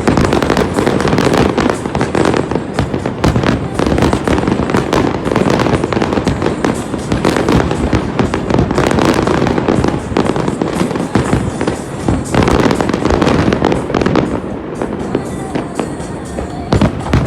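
Dense, continuous barrage of aerial fireworks: rapid overlapping bangs and crackles with a low booming rumble under them, easing slightly near the end.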